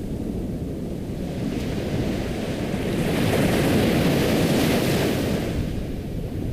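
Ocean waves on a shore: a steady rushing of surf, with one wave swelling up about halfway through and washing back out.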